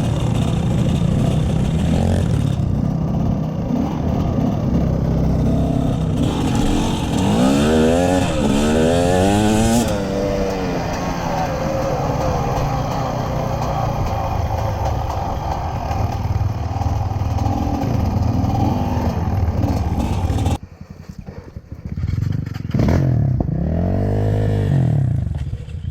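Off-road motorcycle engine running loud and steady while riding, revved up and down several times in quick succession around the middle. About twenty seconds in the engine sound drops away sharply, then a motorcycle revs up once and falls back.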